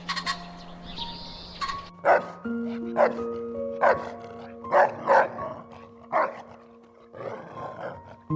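Soft background music with an animal's short, sharp calls repeating roughly once a second over it, after a few high chirps at the start.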